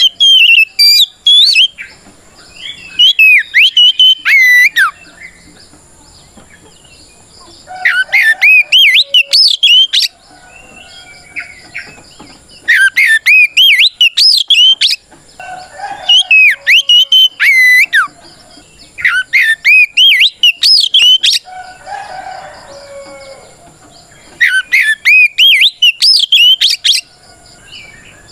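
Oriental magpie-robin (kacer) singing its loud, full challenge song: bursts of rapid, sweeping whistled notes, each phrase lasting two to three seconds, repeated about seven times with short pauses between. It is the song a male uses to call out a rival.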